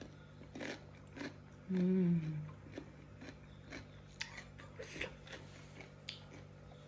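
Crunchy chewing of raw cucumber salad, with a steady run of small sharp crunches. About two seconds in comes a short closed-mouth "mmm" hum that falls in pitch.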